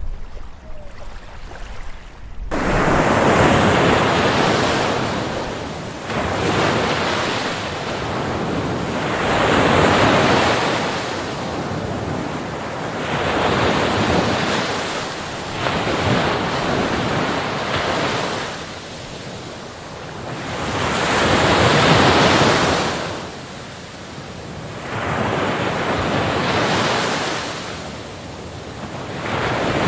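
Waves breaking on a beach, the surf swelling and falling back every few seconds. About two and a half seconds in, a quieter low hiss cuts abruptly to the full surf.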